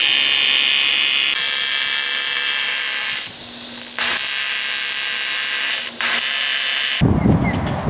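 Loud, steady, high-pitched mechanical buzzing whine, which is said to be nothing wrong and not a wheel bearing. It drops back about three seconds in and briefly near six seconds, then cuts off about seven seconds in to low wind rumble with a few short chirps.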